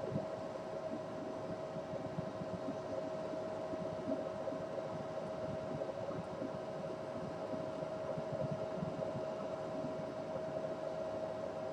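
A steady mechanical hum with one strong constant tone over an even noise, unchanging throughout.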